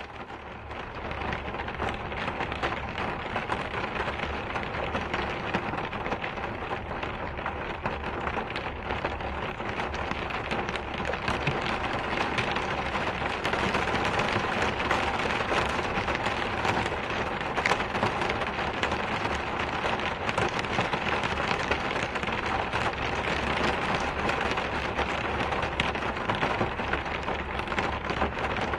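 Steady rain falling in a dense patter of drops, with a low rumble underneath; it swells slightly over the first several seconds and then holds.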